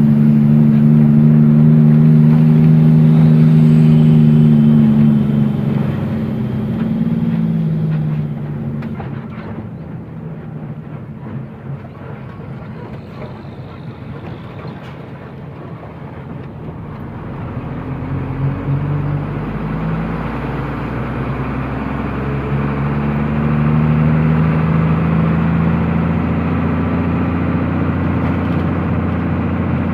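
Truck engine running on the road. Its note drops and fades after a few seconds, stays low and quieter for a while, then climbs again as it accelerates about two-thirds of the way through and settles into a steady run.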